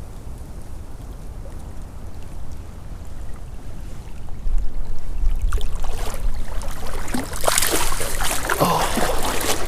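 Low steady rumble of creek water, then from about six seconds in loud irregular splashing as a hooked brown trout thrashes at the surface.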